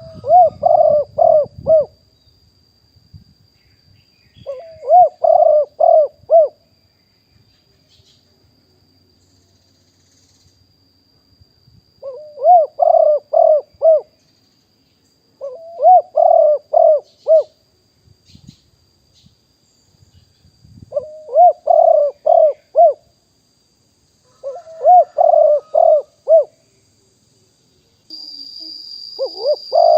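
Spotted dove cooing: seven phrases of four or five rhythmic coo notes, each phrase about two seconds long, with pauses of a few seconds between them. A faint, steady high-pitched whine runs underneath and grows louder near the end.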